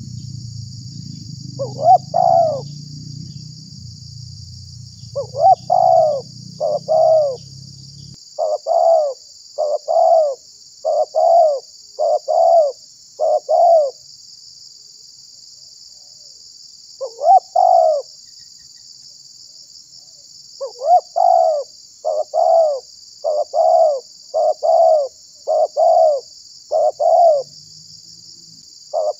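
Spotted dove (tekukur) cooing over and over: runs of short, quick coos with brief pauses between the runs, the kind of call played to lure wild doves.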